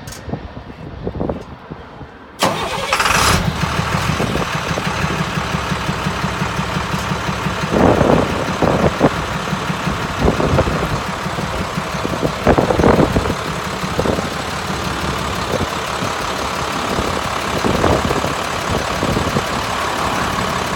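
2006 International 4300 diesel truck engine starting about two seconds in, catching quickly, then idling steadily. It is easy-starting and healthy-sounding.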